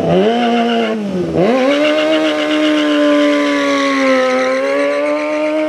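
Motorcycle engine revving hard. The revs drop sharply about a second in, then climb again and are held high and fairly steady.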